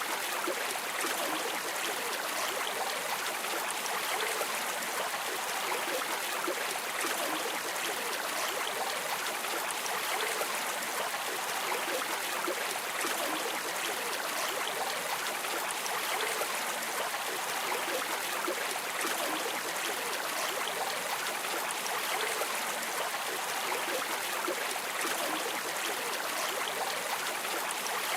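River water flowing steadily, a constant rushing hiss with no breaks.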